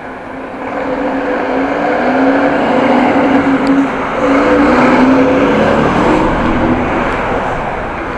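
A car's engine running close by as the car backs up. It grows louder from about a second in, wavers in pitch, and eases off near the end.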